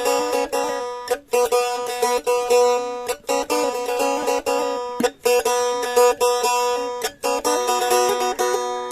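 Blaan faglung, a two-stringed boat lute, plucked in a quick repeating melody over a steady drone note. The phrases break off briefly about every two seconds.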